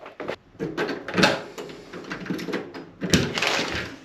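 Irregular clicks and knocks, with louder thumps about a second in and about three seconds in.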